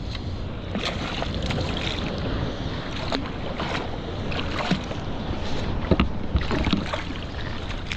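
Water splashing and lapping around a kayak, with irregular knocks and clatters against the hull and wind on the microphone.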